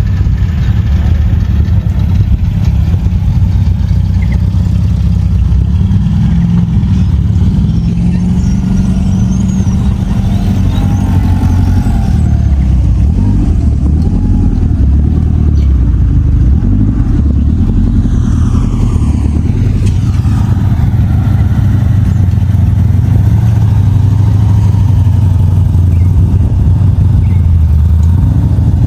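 Classic cars' engines driving past at low speed, a loud, steady low rumble of exhausts with some revs rising and falling.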